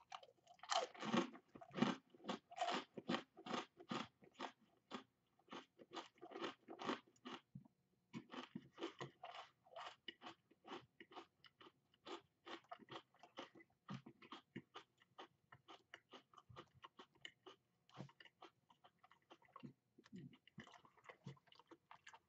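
A person chewing a crisp fortune cookie: a run of short, dry crunches, about three a second, with a brief pause about seven and a half seconds in.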